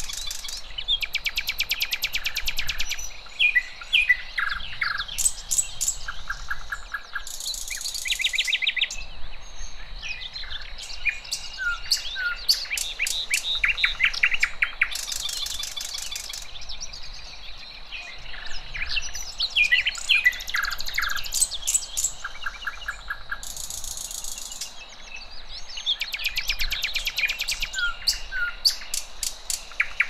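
Several songbirds chirping and singing, with rapid trills and short chirps overlapping throughout.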